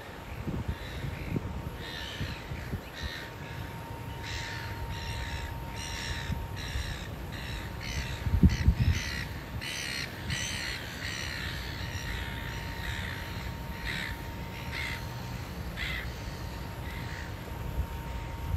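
A bird calling over and over in short, repeated calls, beginning about two seconds in and thinning out near the end. Under them is wind rumble on the microphone, with a louder gust about eight and a half seconds in, and a faint steady whine.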